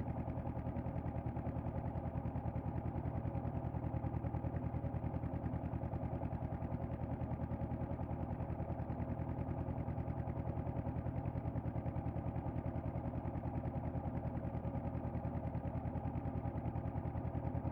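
Honda CB500X parallel-twin engine idling through its exhaust, a steady even pulsing beat with no revving.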